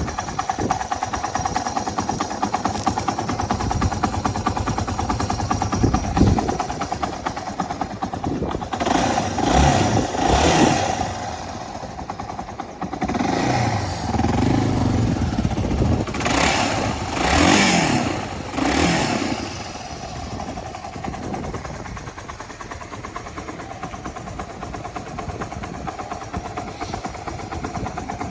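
Yamaha Serow 225W's single-cylinder four-stroke engine running at idle, revved up several times in short throttle blips through the middle stretch, then settling back to a steady idle.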